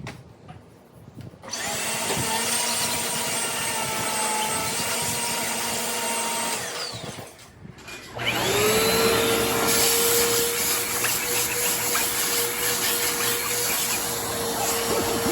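Bissell Power Force Compact bagless vacuum switched on about a second and a half in and running steadily. It winds down around seven seconds in, then starts again with a rising whine as the motor spins up and runs steadily to the end.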